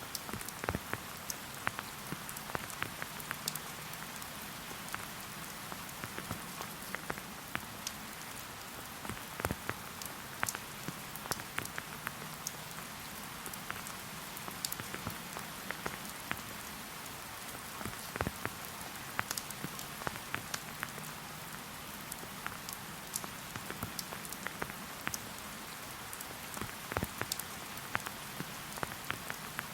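Steady rain falling in a forest, a constant hiss with many separate close drops striking at irregular moments.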